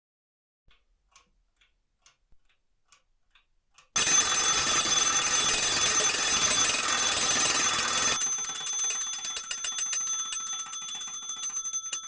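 Restored 1950s German mechanical alarm clock ticking faintly, then its alarm goes off about four seconds in: the hammer strikes the bell rapidly in a continuous ringing, which gets thinner about eight seconds in and fades a little near the end.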